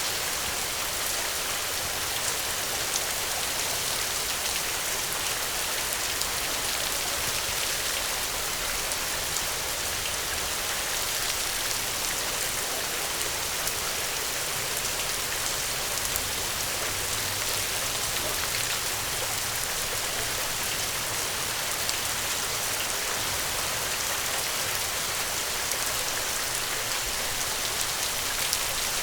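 Steady rain falling, an even hiss with scattered small sharp ticks.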